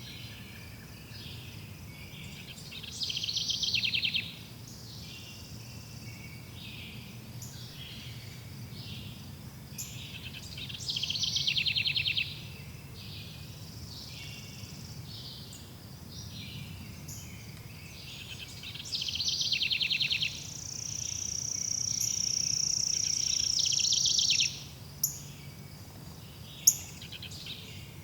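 Forest birds singing: many short chirps and calls, with a loud rapid trill about a second long three times, roughly eight seconds apart, and a long steady high note held for about four seconds near the end.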